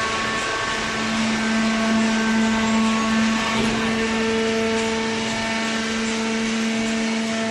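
Hydraulic cardboard baler running: a steady machine hum with a constant whine over it.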